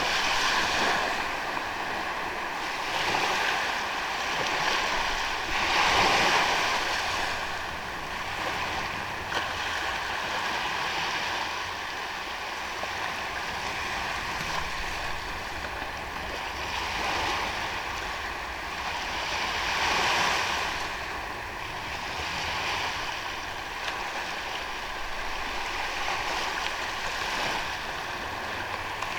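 Ocean waves washing onto a sandy beach, a steady surf hiss that swells with each breaking wave every few seconds, loudest about six seconds in and again about twenty seconds in.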